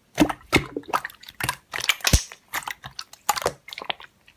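Slime being squeezed and pressed by hand, giving irregular wet squishing clicks and pops.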